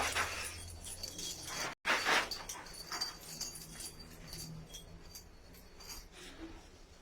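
Domestic pigeons, with soft cooing and short rustling noises.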